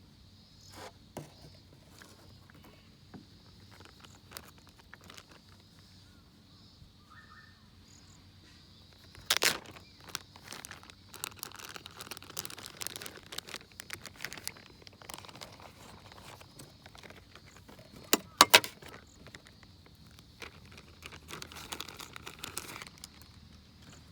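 Steady high insect chirring, with scattered clicks, clinks and rustling from camp gear being handled. Sharp knocks come about nine seconds in and again twice near eighteen seconds.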